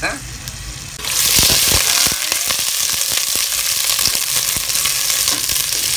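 Sliced red onions and garlic frying in hot oil in a stainless steel pot: a loud, steady sizzle that starts suddenly about a second in, with a few light knocks just after it begins.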